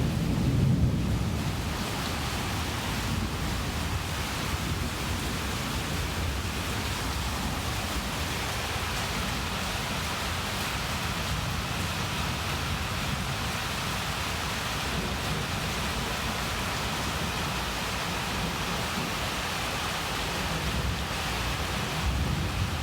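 Heavy rain falling steadily during a thunderstorm, an even hiss, with a low rumble about a second in and again near the end.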